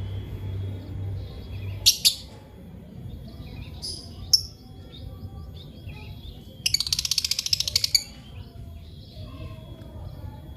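Lovebirds chirping: a pair of loud, shrill chirps, two more a couple of seconds later, then a rapid chattering run of chirps lasting just over a second.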